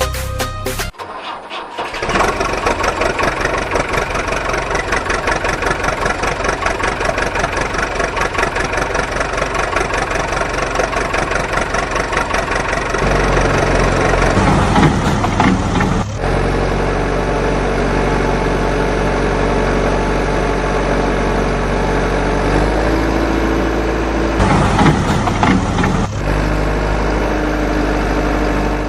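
Heavy vehicle engine running, stopping and changing pitch several times with sudden breaks, the sound of a backhoe loader and trucks at work.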